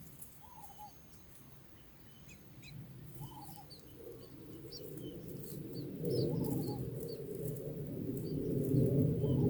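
Birds, likely long-tailed shrikes, giving scattered short high chirps and a few brief falling notes. A low rushing noise swells from about halfway through and is loudest near the end.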